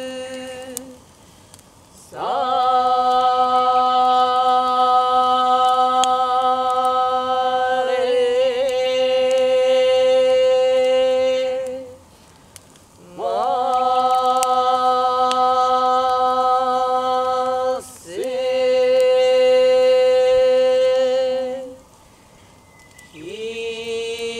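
A voice chanting long, steady held notes on one pitch, each starting with an upward slide. The notes last about four to ten seconds, with short breaks for breath; the vowel shifts partway through the first long note.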